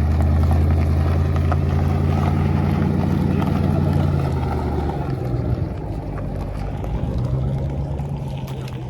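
A car engine running with a deep, steady rumble. It is loud for about the first four seconds, drops off around the middle, and a quieter rumble returns near the end.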